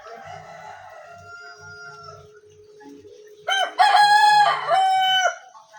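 A rooster crowing: a fainter crow at the start, then a loud crow about three and a half seconds in, broken into three parts with a long held final note.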